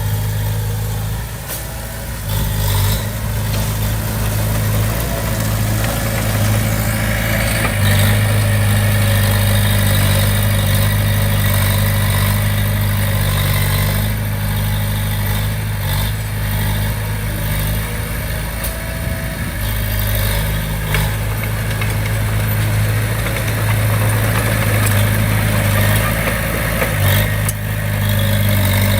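Diesel engine of a Komatsu D20P bulldozer running steadily, its level shifting a little under varying load, with a few sharp knocks.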